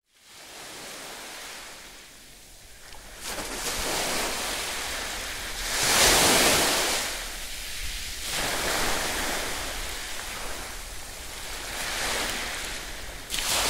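Ocean surf: waves breaking and washing up the beach in several swells that rise and fade, the loudest about six seconds in.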